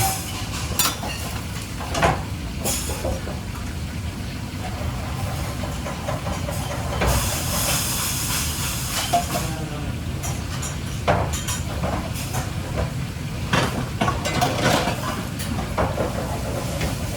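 Restaurant kitchen at work: a steady low rumble, scattered clatters and knocks of utensils and cookware, and a burst of hissing about seven seconds in.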